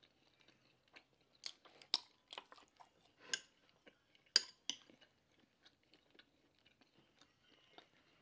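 Close-miked mouth sounds of a person chewing food: faint, irregular wet smacks and clicks, with a few sharper clicks about two, three and four and a half seconds in.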